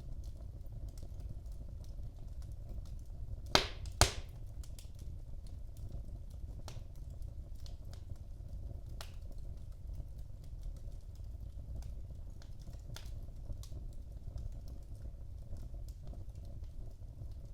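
Wood fire burning in a fireplace, a steady low rumble under scattered small crackles, with two loud sharp pops close together about four seconds in.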